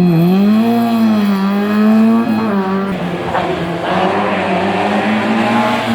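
Historic rally car's engine revving hard, its pitch rising and dipping repeatedly with throttle and gear changes.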